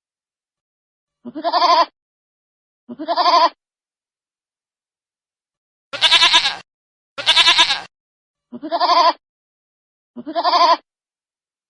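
Baby goat bleating: six short, wavering bleats of about half a second each, separated by dead silence. The third and fourth bleats are harsher and brighter than the rest.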